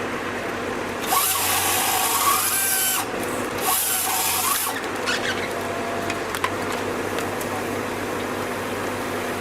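A power saw cuts twice, a burst of about two seconds and then one of about a second, over a steady engine hum. A sharp click follows a couple of seconds later.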